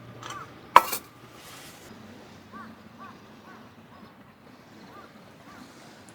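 Quiet outdoor ambience with faint, short bird calls repeating every half second or so, and one sharp click a little under a second in.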